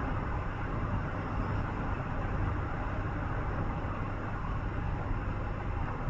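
Steady road noise of a vehicle travelling on the highway: a low rumble of tyres and engine with an even hiss above it, unchanging throughout.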